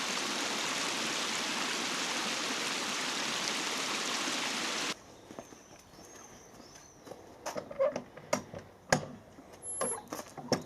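Steady rush of flowing water that cuts off abruptly about five seconds in, giving way to a quiet background with scattered light clicks and knocks.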